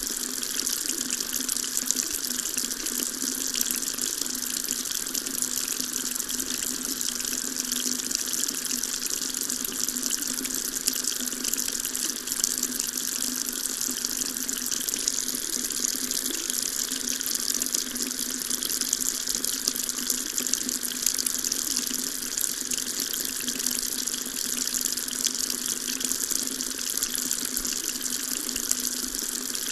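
Water tap running steadily, a continuous hiss of water falling from the faucet.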